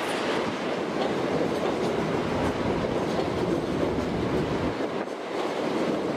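ScotRail Class 365 electric multiple unit passing close by, a steady rumble of running gear with its wheels clicking over rail joints.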